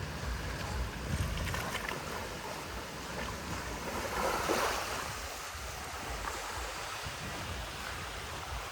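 Surf washing onto the beach, with wind buffeting the microphone in low rumbling gusts; a louder wash of surf swells up about four seconds in.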